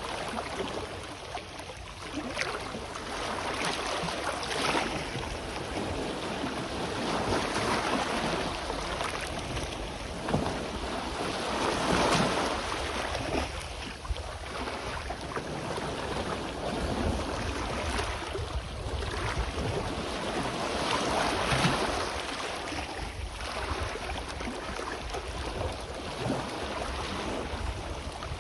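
Sea waves washing onto the shore, swelling and falling every few seconds, with wind buffeting the microphone in a steady low rumble.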